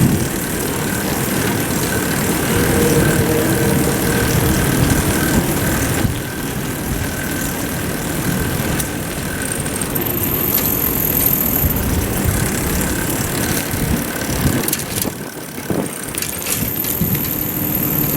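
Wind rushing over an action camera's microphone while cycling, a steady rough noise that dips briefly about fifteen seconds in. A thin high whine comes in about ten seconds in and again near the end.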